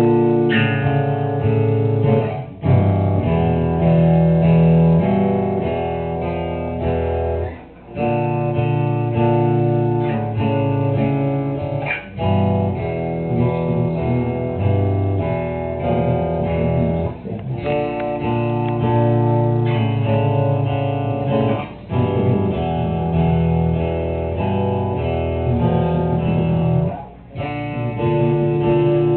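Guitars playing a slow, repeating picked phrase in a live performance, with full low notes under ringing higher notes. The phrase breaks off briefly about every four to six seconds and starts again.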